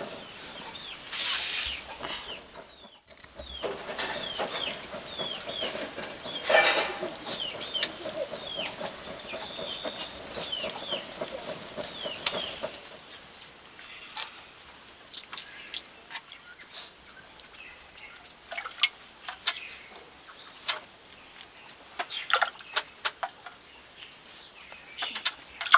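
Outdoor ambience: a steady high-pitched insect drone, with many short repeated bird chirps over the first half, then scattered sharp clicks and taps.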